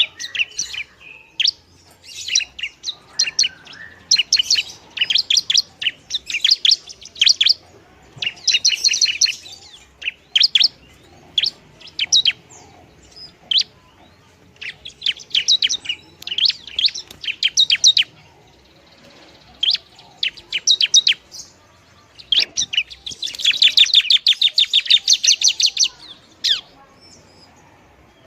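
Long-tailed shrike (pentet) singing: repeated bursts of quick, sharp chirping notes with short pauses between, and a longer, denser run of notes near the end.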